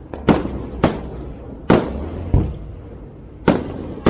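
Aerial fireworks shells bursting: five sharp booms at uneven intervals of about half a second to a second, each followed by a fading rumble, with a few fainter pops between them.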